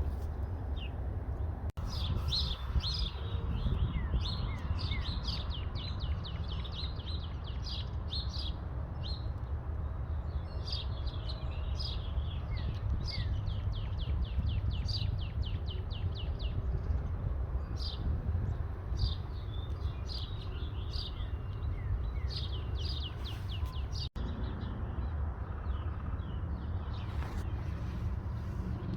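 Small birds chirping, with many quick, repeated chirps in rapid runs throughout, over a steady low rumble.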